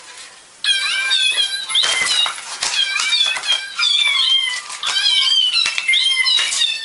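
Several kittens mewing over one another: short, high calls, several a second, starting abruptly less than a second in.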